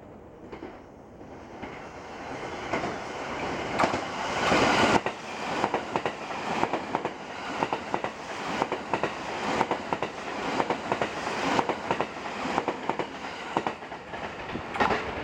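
A limited express electric train passing at high speed. Its noise builds as it approaches and peaks as the front goes by about five seconds in. Then the wheels clack rhythmically over the rail joints as the cars run past.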